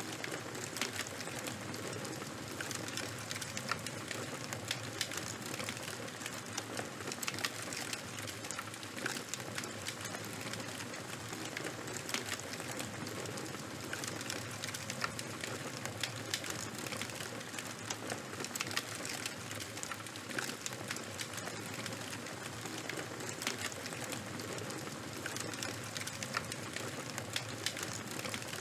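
Campfire burning with steady crackling: a constant hiss with many sharp, irregular pops and snaps.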